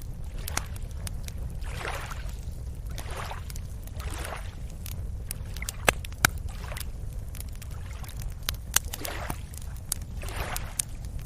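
Small waves lapping and sloshing at the shoreline, in repeating swishes about every second or so, over a steady low rumble, with scattered sharp clicks and ticks.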